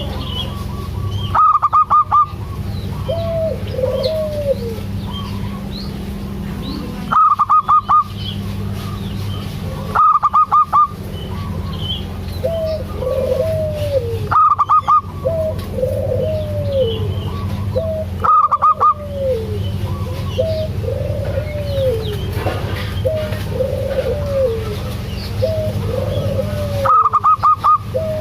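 Zebra doves (perkutut) cooing: loud bursts of four or five rapid staccato notes every few seconds, with softer arched coos repeating about once a second between them. A steady low hum runs underneath.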